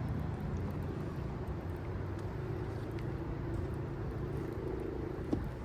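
A boat's motor running steadily: a low rumble with a steady mid-pitched tone. A short knock sounds near the end.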